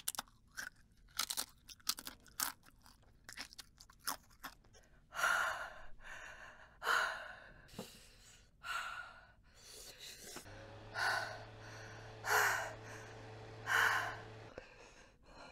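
Close, crisp crunching of a spicy tortilla chip being bitten and chewed, followed by repeated sharp hissing gasps and breaths out as the chip's heat burns her mouth. A small handheld fan's motor hums steadily for a few seconds near the end.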